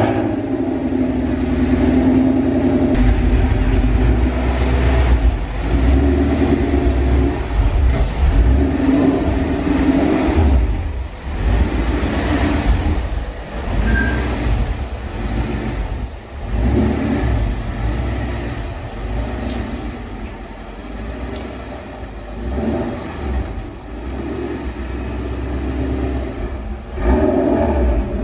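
Ford Mustang GT's V8 engine running and revving as the car is driven out of the garage onto the driveway, its note swelling and easing off several times.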